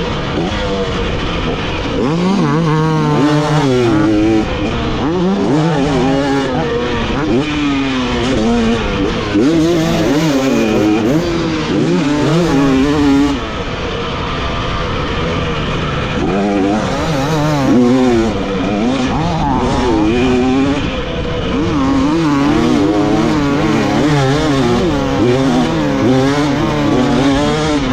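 Dirt bike engine revving hard and backing off again and again as it is ridden around a motocross track, its pitch climbing and falling with the throttle and gear changes.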